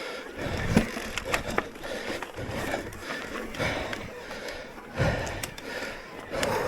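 Electric mountain bike rolling over a rough dirt trail: tyre crunch and scrape, with irregular knocks and rattles from the bike and a couple of heavier thumps.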